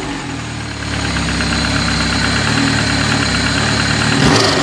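Supercharged 2003 Yamaha R1 inline-four idling steadily after a rebuild, with one brief louder burst near the end. It is running with no leaks found and, in the owner's words, sounds good.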